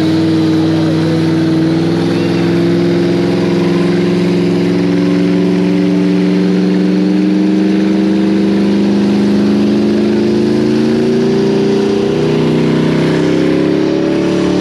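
Vehicle engine held at high revs in a long, steady pull, its pitch creeping slowly upward: typical of a burnout.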